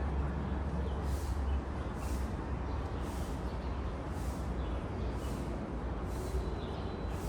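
Outdoor ambience: a steady low rumble, with soft scuffing footsteps on pavement about once a second from someone walking at an easy pace.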